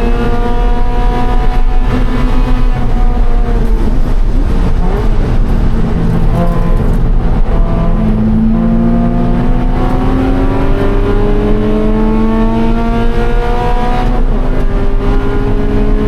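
Scion FR-S's 2.0-litre flat-four engine at racing speed. It eases off about four seconds in, then pulls hard with rising revs from about eight seconds, with a quick upshift near fourteen seconds before the revs climb again.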